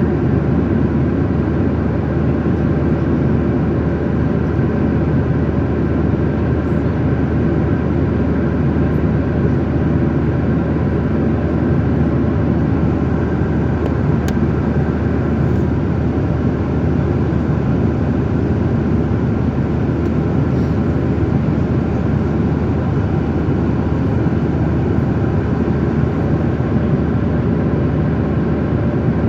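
Jet airliner cabin noise heard from inside the passenger cabin: a steady rush of engine and airflow noise, deep and even, with faint steady tones above it.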